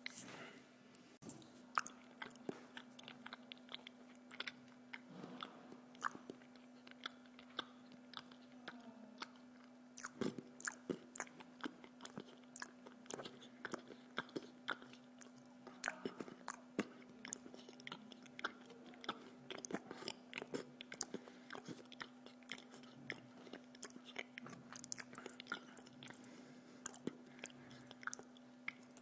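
A person chewing food close to the microphone, with many irregular crunchy clicks and smacks, over a steady low hum.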